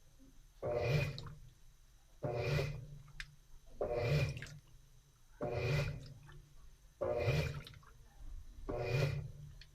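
Washing machine agitating during the wash: water and laundry slosh in regular strokes, one about every one and a half seconds.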